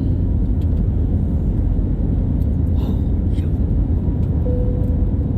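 Airbus A321 cabin noise during takeoff: the engines and airflow make a steady, loud low rumble, with a short faint tone about four and a half seconds in.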